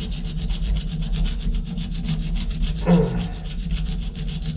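A saw cutting into a stuck metal shower-valve bonnet nut, an even rasping at about eight strokes a second. A short falling squeal comes about three seconds in.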